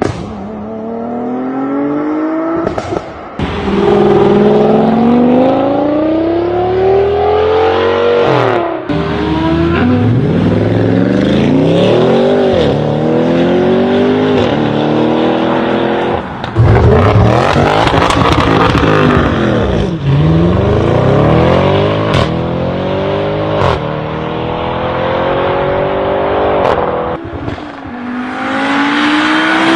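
A run of several clips of car engines accelerating hard, one after another. In each, the engine note climbs and then drops sharply at the gear changes before climbing again.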